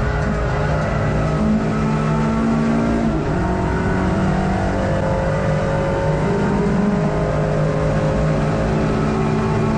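Race-prepared hot hatchback's engine heard from inside the car at racing speed, running hard with its note stepping up and down in pitch several times through the stretch.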